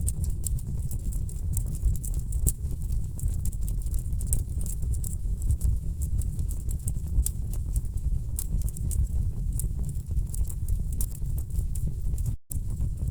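Wood fire crackling: a dense, irregular scatter of sharp pops and snaps from burning logs over a steady low rumble of flames. The sound drops out for a split second near the end.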